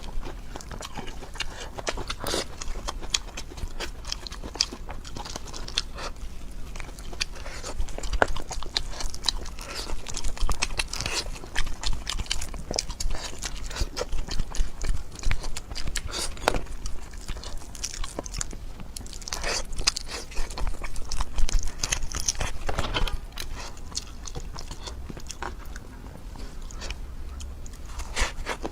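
Close-miked eating: a person biting and chewing quickly, with wet chewing and irregular crunchy crackles throughout.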